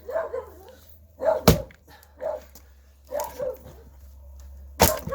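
Axe striking a pine log as it is split for firewood: two sharp chops about three seconds apart. Short whining calls sound between the chops.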